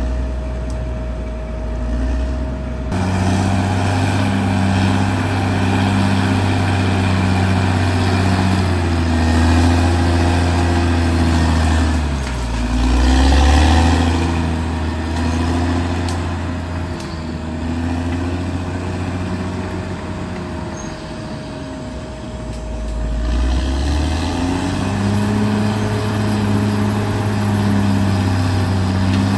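Caterpillar D6R XL bulldozer's diesel engine working under load, its pitch sagging and recovering about twelve seconds in and again after about twenty-two seconds, with a steady high whine throughout.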